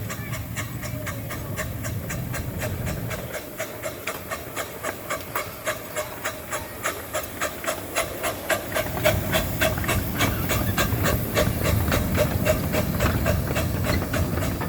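A train passing close by, its wheels clicking over the rail joints in a steady rhythm of about three clicks a second, with a low rumble that grows louder about two-thirds of the way through.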